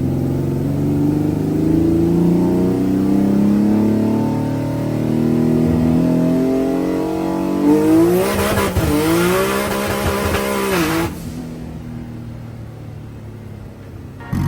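Twin-turbo Nissan VR30 V6 in a 350Z making a full-throttle dyno pull: the revs climb steadily for about eight seconds, then it goes much louder and harsher at the top end for about three seconds before lifting off, with the revs and level dropping to a quieter run-down.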